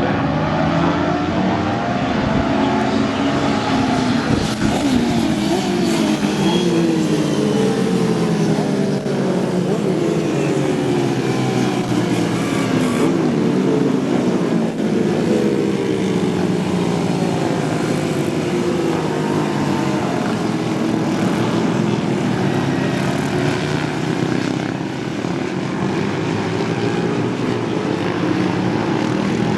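Several classic racing motorcycle engines running together, their pitches rising and falling and crossing as they rev.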